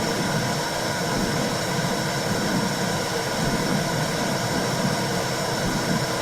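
Womb-sound recording for calming a baby: a steady low whooshing noise like the sound inside the uterus, heaviest in the low range, with no break or change.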